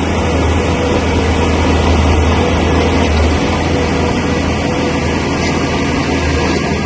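Heavy bulldozer's diesel engine running steadily under work, a loud low drone with a wide rumbling noise over it; the drone eases slightly about three and a half seconds in.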